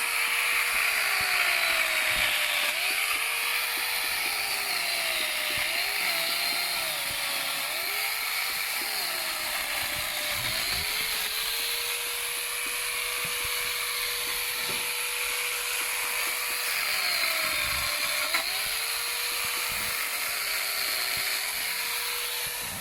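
Angle grinder fitted with a chainsaw attachment, running at full speed and cutting through a log. The motor whine sags repeatedly as the chain bites into the wood and recovers between bites, and it winds down at the very end.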